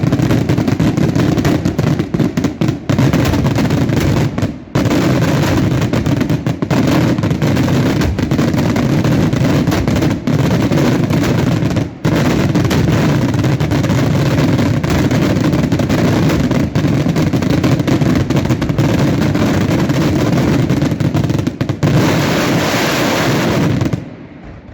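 Dense, continuous barrage of fireworks going off, the reports so rapid they merge into one loud, crackling roar. It cuts off suddenly near the end.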